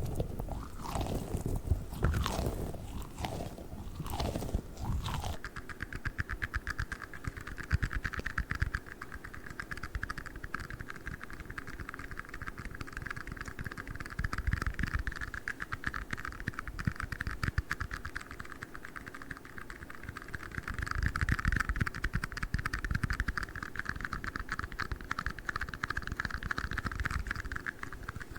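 Close-miked ASMR trigger sounds. For about five seconds squishy balls are squeezed with gliding, squelchy strokes. Then comes a fast, dense run of tapping and scratching on tiny cups.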